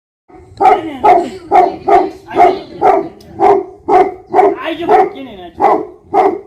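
Tibetan mastiff barking steadily and rhythmically, about two barks a second, in a long unbroken run that starts just after the opening.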